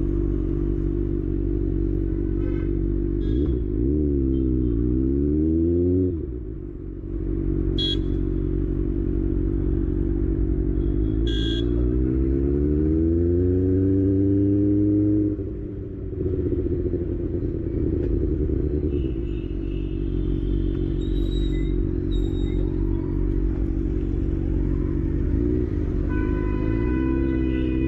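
Kawasaki ZX-6R inline-four engine riding in traffic. It runs steadily, dips and picks up again around four to six seconds in, then revs in a long rising climb from about eleven seconds before the throttle closes near sixteen seconds. Near the end a vehicle horn honks in short blasts.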